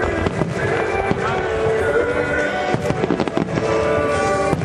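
Fireworks bursting in a rapid series of bangs, with music playing at the same time.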